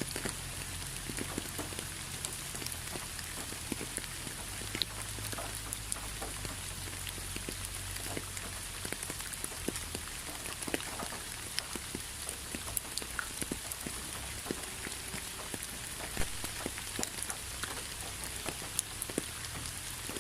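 Rain falling steadily, a constant hiss with many irregular individual drops ticking sharply on a surface.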